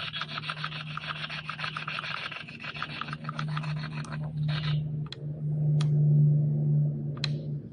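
EVP spirit box sweeping through radio stations: a fast, rasping chatter of chopped static, about ten pulses a second, that stops about four and a half seconds in. A steady low hum builds under it and is loudest near the end, with a few sharp clicks.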